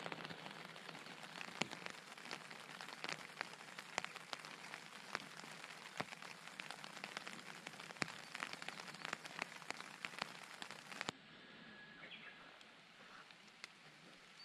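Water drops pattering on a camping tarp overhead: a steady hiss with many sharp ticks, cutting off suddenly about eleven seconds in. After that comes a quieter outdoor hush with a few short bird chirps.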